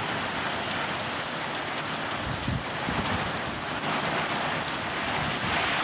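Heavy rain falling steadily, with gusts of wind buffeting the microphone in low rumbles.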